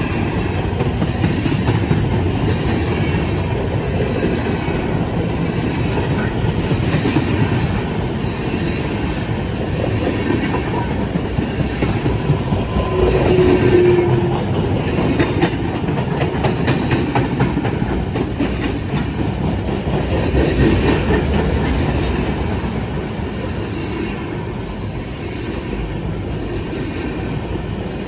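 Freight cars of a CSX manifest train rolling past, a steady rumble with wheels clicking and clacking over rail joints. A short squeal comes about halfway through, and the sound swells and eases a few times as the cars go by.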